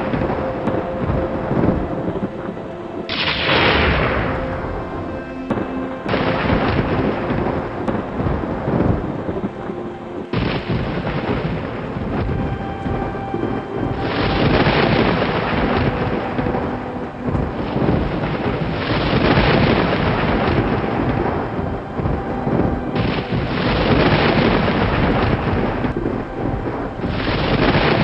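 Rolling thunder rumbling peal after peal over rain, with abrupt changes every few seconds where separate thunder recordings are joined.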